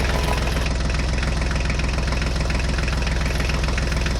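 Truck engine running steadily, with an even, rapid chugging.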